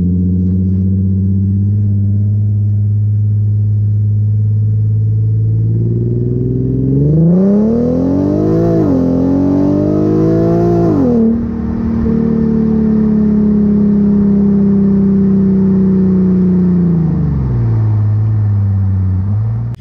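Infiniti Q50 engine and exhaust heard from under the car by the rear differential while driving: steady cruising, then acceleration with the engine pitch climbing twice with a dip between, as in an upshift, along with a louder rush of noise. After that it settles back to a steady cruise, and its pitch falls as the car slows near the end.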